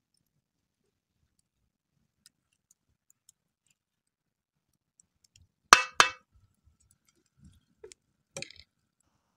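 A utensil clinking twice against a cooking pot midway through, the two strikes a fraction of a second apart, then a few lighter knocks near the end.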